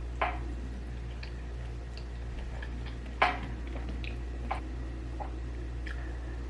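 Eating sounds: scattered soft clicks and smacks of chewing, the loudest about three seconds in, over a steady low hum.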